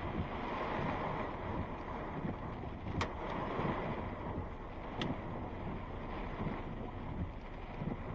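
Steady wind-driven rain noise from a thunderstorm, with two sharp knocks about two seconds apart: the first hailstones striking.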